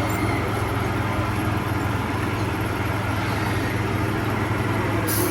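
Steady low hum and rumble of a vehicle engine running.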